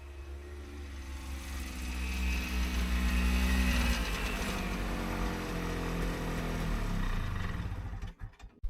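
Snowmobile engine running under way. It grows louder over the first few seconds, then drops in pitch about four seconds in and again near the end as it slows, before cutting off.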